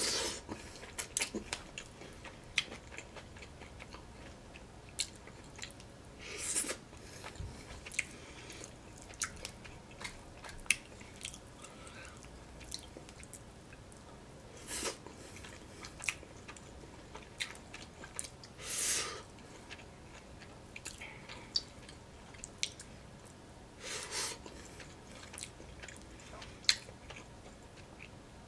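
Close-miked chewing and biting of Indian food eaten by hand: wet mouth clicks and smacks with some crunch, scattered irregularly. A few longer, louder noisy bursts come about every four to five seconds.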